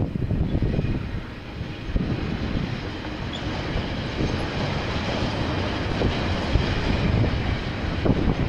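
KiwiRail train passing on the line: a steady rumble of wheels on rail, with the higher rushing noise growing from about two seconds in.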